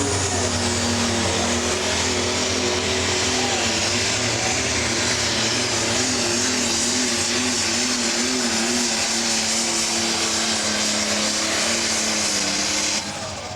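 Pro stock pulling tractor's turbocharged diesel engine running flat out under load through a pull, loud and steady, with a high turbo whine over it. The engine cuts back sharply near the end as the run finishes.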